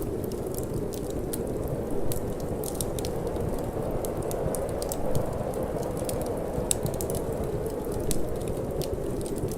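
Wood fire crackling in a fireplace, sharp irregular pops over a steady low rush of wind and flame.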